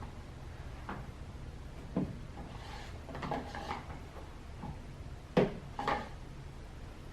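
Half a dozen light knocks and clatters, spaced irregularly, over a faint low hum: handling noise.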